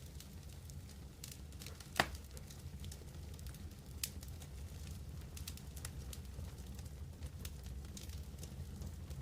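Wood campfire crackling with scattered small snaps and pops, one sharp loud pop about two seconds in and a smaller one about two seconds later.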